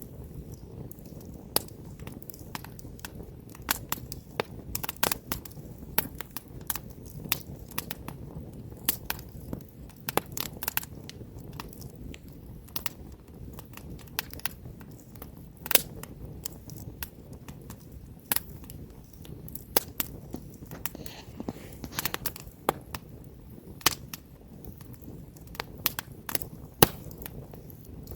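Wood campfire burning, with many sharp, irregular crackles and pops over a low, steady rumble of flame.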